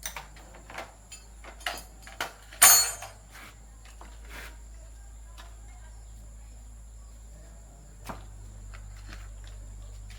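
Scattered light clicks and knocks of small hard objects being handled, with one louder clack about three seconds in, over a low steady hum.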